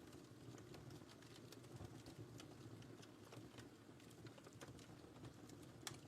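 Wood fire in a fireplace crackling softly: irregular small pops over a low steady rumble of the flames, with one sharper pop near the end.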